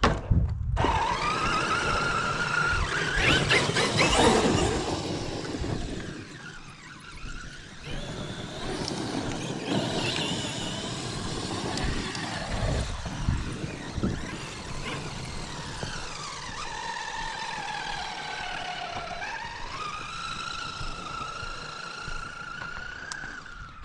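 Large electric RC monster truck on Sledgehammer tires being driven on a dirt track. Its motor and gear whine rises and falls in pitch with the throttle, over tire and gravel noise.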